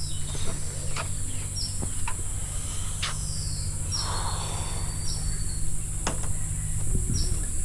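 Birds giving short, high chirps that drop quickly in pitch, about half a dozen spread through, over a steady high-pitched insect buzz and a low rumble.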